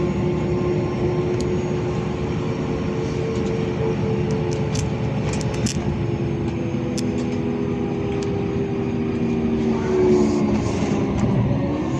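LiAZ 5292.65 city bus heard from inside the cabin while under way: a steady running rumble with a drivetrain whine whose pitch drops from about nine seconds in, as the bus slows. A few light clicks and rattles come around the middle.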